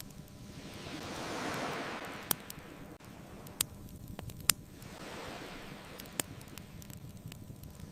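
Ocean waves washing onto a beach in slow swells, one cresting about a second and a half in and a softer one later, with a few sharp pops from a crackling bonfire.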